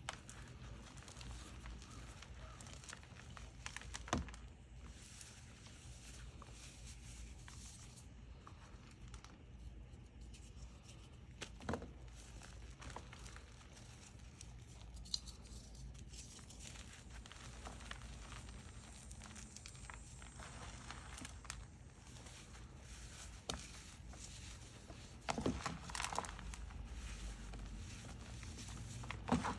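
Gym chalk being crushed and crumbled by hand: a soft crumbly crackle throughout, with a few sharper crunches about 4, 12 and 15 seconds in, a burst of crunching around 25 seconds in, and one more just before the end.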